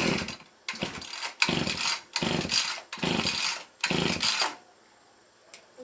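About six rasping scraping strokes on a workpiece, roughly one every three quarters of a second, then they stop a little past halfway through.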